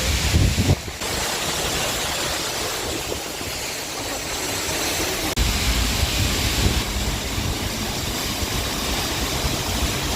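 Seljalandsfoss waterfall thundering close by: a steady, loud rushing of falling water. Bursts of low rumble come briefly near the start and again from about five and a half seconds in.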